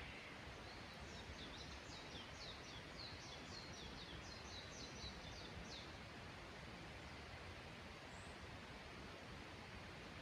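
A small songbird sings a rapid trill of short, high notes for about five seconds, then gives one brief high chirp near the end. Underneath is a faint, steady rushing background.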